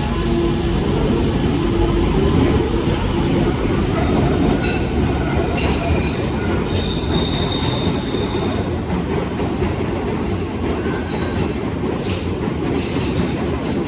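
London Underground train running on the rails, a loud steady rumble with a few sharp clicks and a brief high wheel squeal about seven seconds in.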